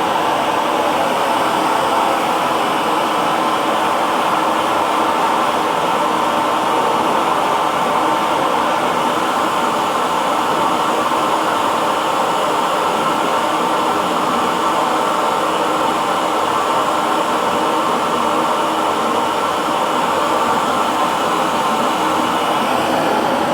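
Hair dryer running steadily with a constant blowing noise.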